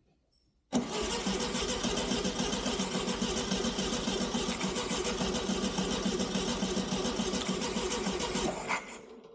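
Starter motor cranking a 1969 Volkswagen Beetle's air-cooled flat-four engine for about eight seconds in one steady run, then stopping abruptly. The engine turns over but does not fire, which the owner puts down to no spark.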